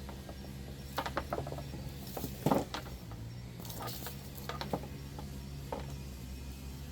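Scattered clicks, rattles and light knocks of hands handling electrical wires and plastic light-fixture parts, the loudest a knock about two and a half seconds in, over a steady low hum.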